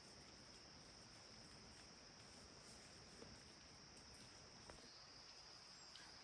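Faint, steady high-pitched chorus of night insects such as crickets, with a couple of soft clicks about three and four and a half seconds in.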